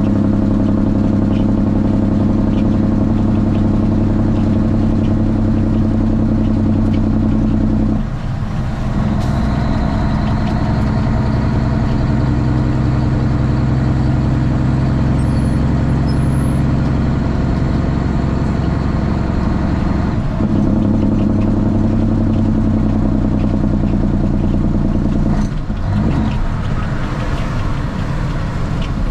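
Straight-piped Cummins ISX inline-six diesel in a Kenworth T800 running hard with a steady exhaust note. The note changes abruptly three times, about 8, 20 and 25 seconds in, as the engine speed shifts. A faint high whine is heard through the middle stretch.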